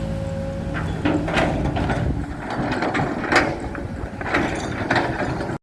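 Hydraulic excavator engine running steadily, with a series of irregular metallic clicks, clanks and creaks from its working arm and bucket as it shapes soil.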